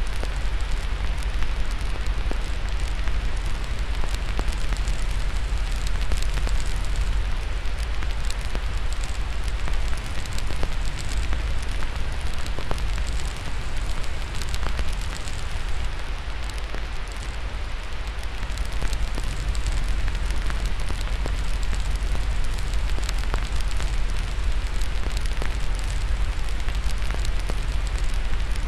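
Crackling fire over steady white noise: frequent small, irregular pops and snaps on top of an even hiss with a low rumble beneath.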